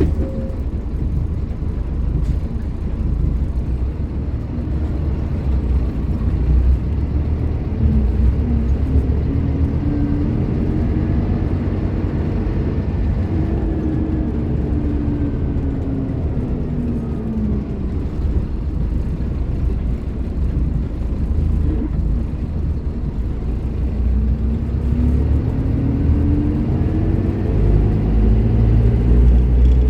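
Scania K310IB bus's diesel engine running under way, a 9-litre five-cylinder. Its pitch climbs as it pulls, falls away for a few seconds, then climbs and grows louder again toward the end.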